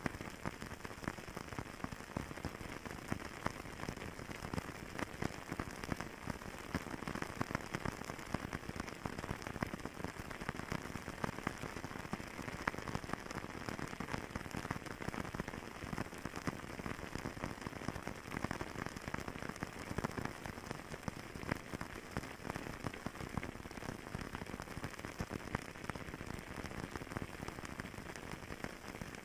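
Wood fire crackling in a fireplace: a steady hiss dense with small, quick pops and snaps.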